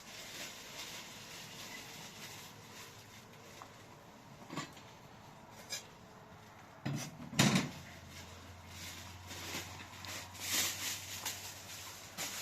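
Scattered knocks and clatters of things being handled, the loudest about seven and a half seconds in, with rustling hiss between them.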